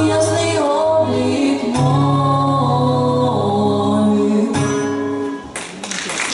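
Song with several voices singing in harmony to acoustic guitar, ending on a long held final chord; applause breaks out about five and a half seconds in.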